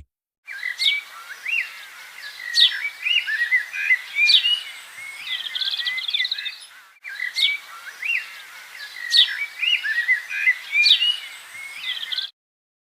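Birds chirping and singing in high, quick notes, with sharp downward-sweeping whistles and short trills over a faint hiss. The same few seconds of birdsong play twice over, then cut off abruptly shortly before the end.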